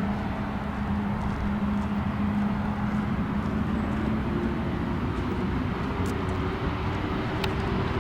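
Jet airliner engines running in a steady rumble with a constant low hum, and a second faint tone that creeps slowly upward over the second half.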